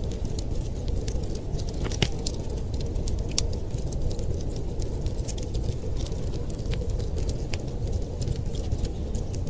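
Wood fire crackling: irregular sharp pops and snaps, the loudest about two seconds in, over a steady low rumble.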